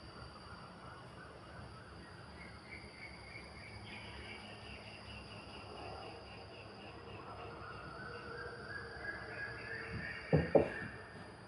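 Outdoor wind ambience: a low rumble of wind under a steady high insect drone, with faint thin tones coming and going. About ten seconds in, two sharp knocks land close together.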